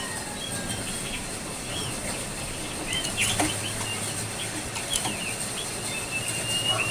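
Jongkangan coklat calling: a run of short, high chirps and quick sweeping notes, with a longer, steady whistled note near the end. Two brief rustles break in about a third and two thirds of the way through.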